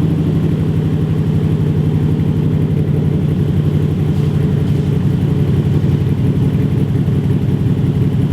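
1970 Corvette's L46 350 small-block V8 idling steadily through Hooker side-exit exhaust pipes, warming up after a cold start following a month in storage.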